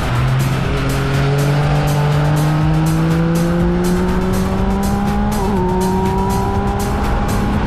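Yamaha XSR900's inline three-cylinder engine heard onboard while accelerating: its pitch climbs steadily for about five seconds, wavers briefly, then holds steady.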